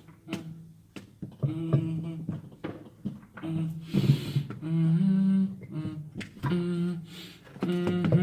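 A man humming a tune in a run of held notes, with scattered sharp clicks and a short scraping rasp about four seconds in.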